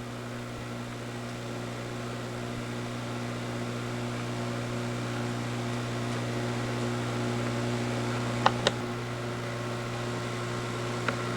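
Steady low mechanical hum of a room machine such as a fan or air conditioner, with two short sharp clicks about two-thirds of the way through and again near the end.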